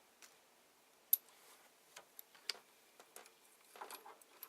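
Scattered light clicks and taps of small printer parts being handled, with the sharpest click about a second in, over a faint steady hum.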